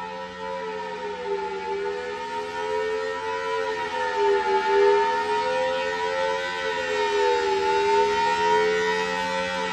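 Large outdoor warning siren sounding a steady tone made of several notes together, its pitch swaying slightly up and down about every three seconds.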